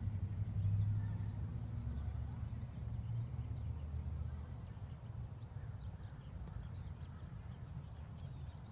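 Wind rumbling on the microphone, strongest in the first few seconds and then easing off.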